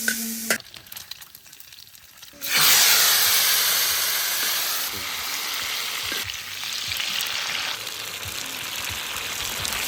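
Meat frying in rendered fat used in place of cooking oil, a steady sizzle. After a short quieter stretch, it comes back loud about two and a half seconds in and eases off slowly.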